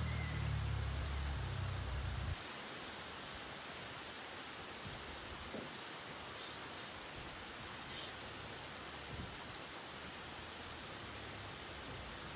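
Steady rain hissing, with a few faint drop ticks. A low rumble under it cuts off abruptly about two seconds in.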